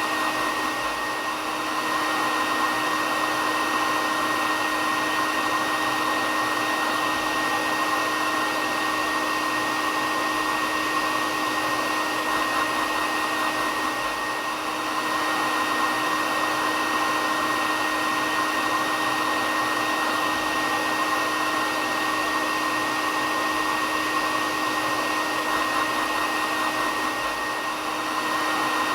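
Hair dryer running steadily: a continuous rushing of air with a steady whine, its level dipping slightly about every thirteen seconds.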